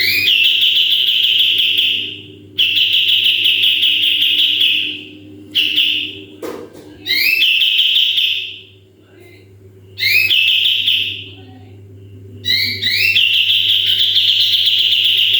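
A kapas tembak songbird sings a run of long, rapid trills, each lasting one to three seconds and opened by a few short rising notes. These are the trills bird keepers call 'tembakan'.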